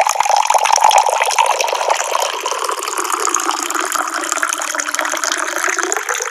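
Water running from a tap in a steady stream.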